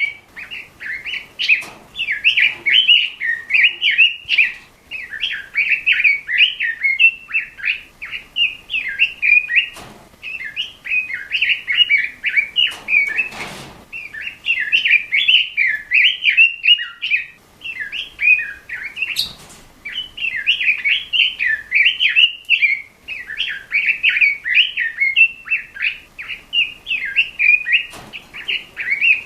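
Red-billed leiothrix (Pekin robin) singing continuously in long, fast warbling phrases, broken by short pauses every few seconds. A few sharp clicks cut in, with a louder one about halfway through.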